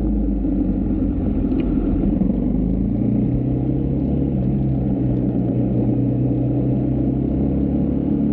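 Husqvarna Svartpilen 401's single-cylinder engine running under way, with its pitch shifting about three seconds in.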